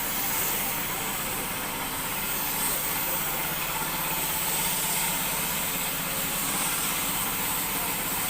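Royal Enfield Bullet's single-cylinder engine idling steadily.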